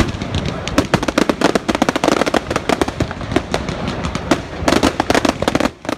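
Fireworks crackling: a dense, rapid run of sharp bangs and pops, with a thicker flurry about five seconds in.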